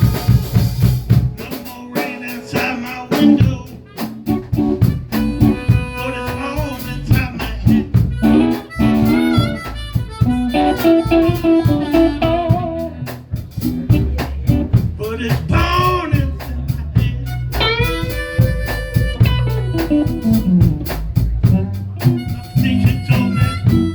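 Blues band playing an instrumental break: a harmonica solo with bending, sliding notes over guitar and drums keeping a steady beat.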